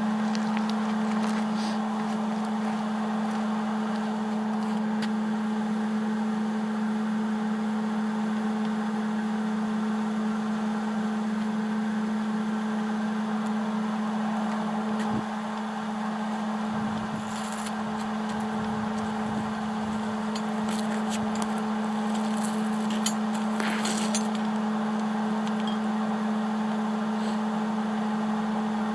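Steady machine hum with a low pitched drone, running evenly throughout, with a few faint clicks and rattles between about 17 and 24 seconds in.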